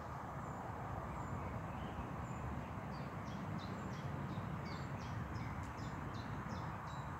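A small bird calling in a quick run of short high chirps, two or three a second, starting about three seconds in, over a steady low rumble of outdoor background noise.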